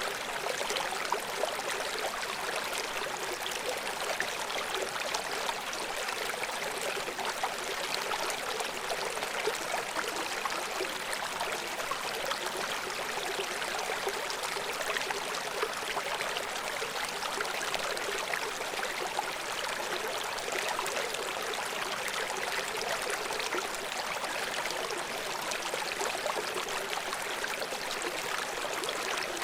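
River water flowing and splashing over rocks below a waterfall, a steady rushing with many small bubbling splashes and little low rumble.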